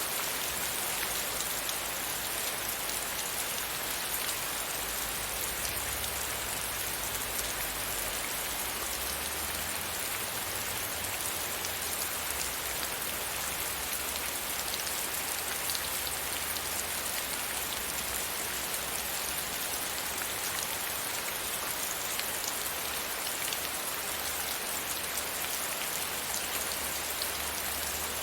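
Steady rain pattering against a window pane, a dense even hiss of many small drop ticks.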